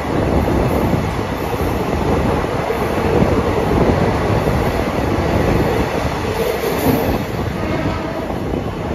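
Passenger train coaches running along the track, heard from on board: a steady loud rumble and rattle of wheels on rail.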